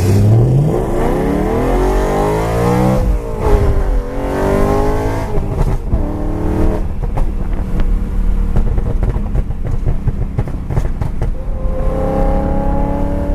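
High-performance car engine revving hard and accelerating, its note climbing steeply through the first few seconds with gear changes a few seconds apart, then dropping to a lower rumble with crackling pops from the exhaust. Another steady engine note comes in near the end.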